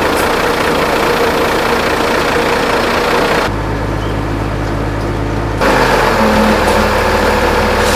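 A machine running steadily with a low hum and a loud hiss over it; the hiss drops away for about two seconds midway, leaving only the hum, then comes back.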